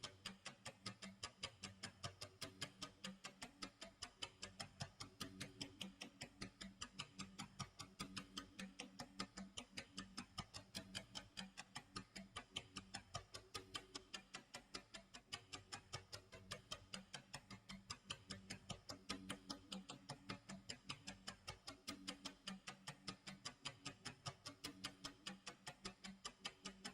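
Clock tick-tock sound effect: a fast, even run of faint ticks that never varies.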